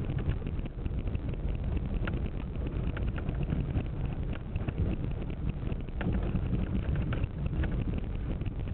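A car driving along a road: a steady low road and tyre rumble with wind buffeting, and scattered small ticks and rattles.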